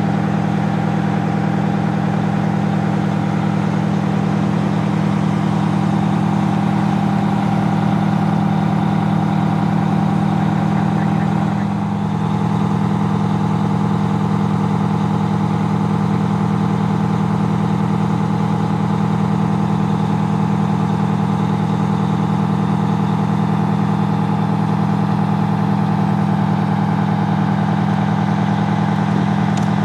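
Fire engine's engine idling steadily at a constant low pitch, with a brief small dip about twelve seconds in.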